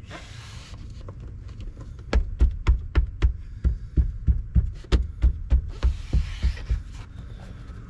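Rubber door-opening gasket being pressed home onto its flange with a quick run of dull thumps, about three a second, starting about two seconds in; it is a compression fit.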